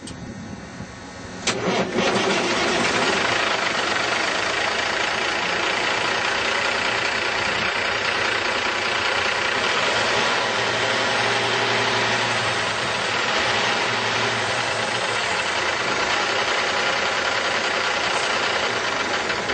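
Cummins ISX inline-six diesel in a Volvo VNL780 semi truck starting up. It catches suddenly about a second and a half in, then settles into a steady idle.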